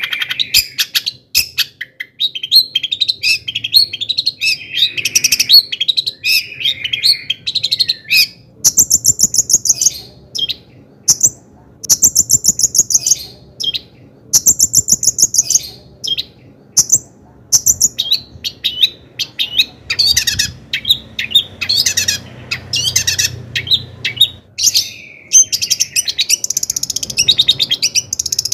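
Long-tailed shrike (cendet) singing a fast, varied song of chattering phrases and rapid high trills, broken by short gaps.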